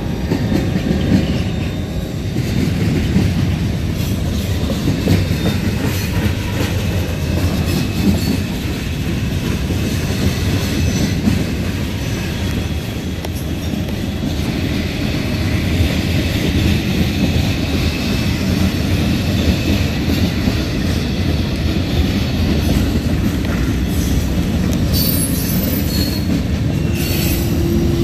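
Freight train cars, covered hoppers and gondolas of a Norfolk Southern manifest, rolling past over a grade crossing: a steady rumble and clatter of steel wheels on the rails, with brief high squeals near the end.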